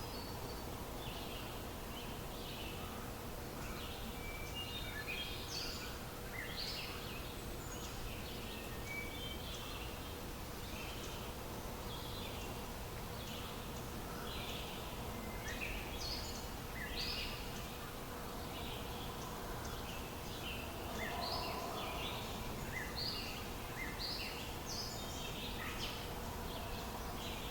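Birds chirping, many short high calls repeating throughout over a steady noisy background with a faint steady hum.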